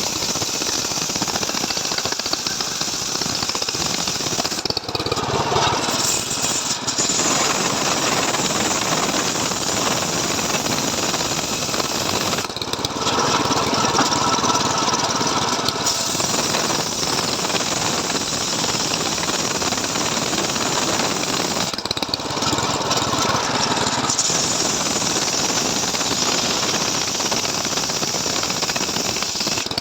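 Stihl MS 381 two-stroke chainsaw running hard while cutting through a log in a home-built chainsaw-mill frame. Its note changes a few times along the way.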